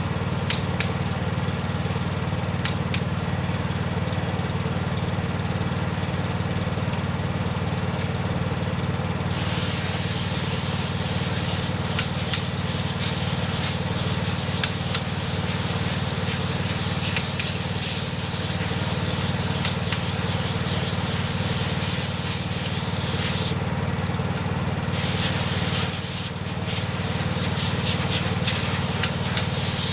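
A steady motor hum runs throughout. About a third of the way in, a loud continuous hiss starts, breaks off for about a second near the end, then comes back.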